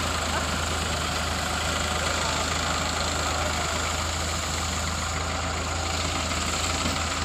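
New Holland tractor diesel engine running steadily with an even low hum.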